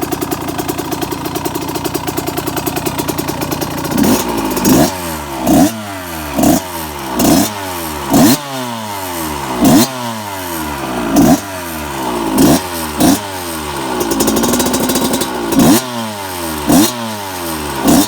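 Freshly restored 1990 Kawasaki KX125 two-stroke engine idling steadily, then revved out about four seconds in: a dozen or so sharp throttle blips, each climbing fast and dropping back to idle.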